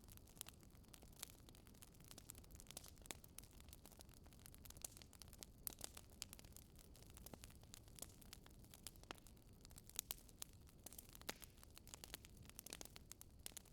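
Wood fire in a fireplace crackling faintly: irregular soft pops and snaps, a few of them louder, over a low steady rumble.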